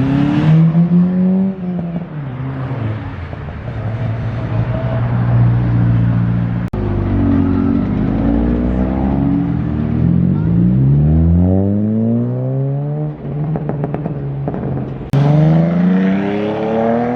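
Loud vehicle engines revving and accelerating, the pitch climbing and dropping again. The sound breaks off abruptly about seven seconds in and again near fifteen seconds, where a new rise begins.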